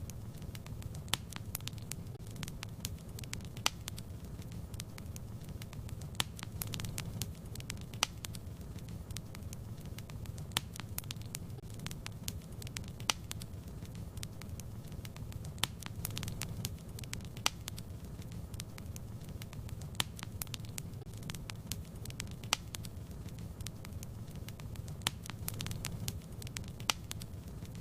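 Fireplace fire crackling: a steady low rumble with frequent small pops and snaps, a louder pop every second or two.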